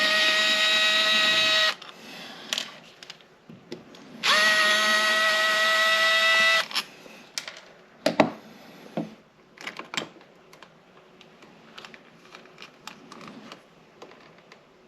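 Power drill running in two bursts of about two seconds each, spinning up to a steady pitch and stopping abruptly. A few sharp clicks and knocks of handling follow.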